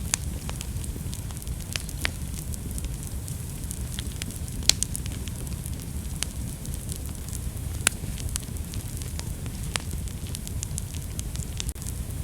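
Wood fire burning in a fireplace: a steady low rumble of flame with frequent sharp crackles and pops, the loudest pops about five and eight seconds in.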